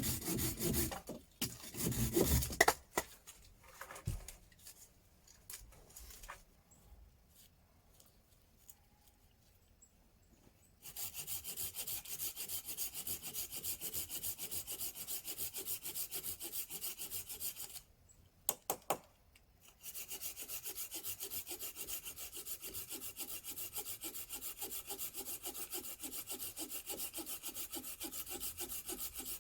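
Hand saw cutting wood in quick, even back-and-forth strokes, stopping for a few seconds twice between bouts of sawing.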